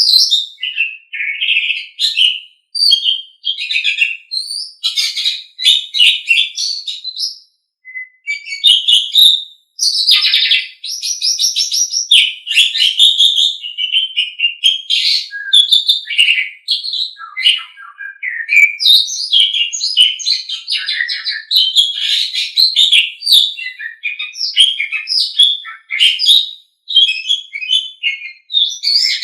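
Asian pied starling (jalak suren) singing a long, varied song of rapid high notes and whistled phrases, almost without a break.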